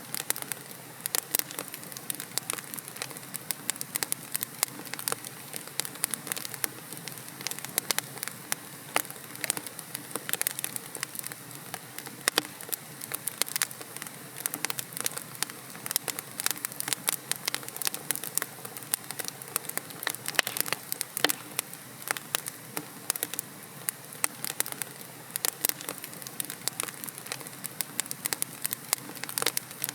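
Wood logs burning in a fireplace, crackling and popping continuously with dense, irregular sharp snaps over a soft hiss.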